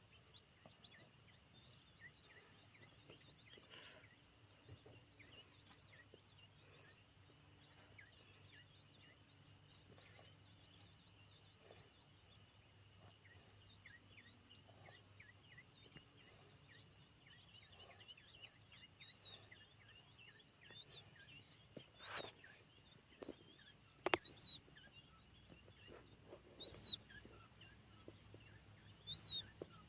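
Faint, steady high-pitched insect trill, crickets by the sound of the tags, pulsing rapidly without a break. In the last third come a few short high chirps, each rising and falling, and a handful of sharp clicks.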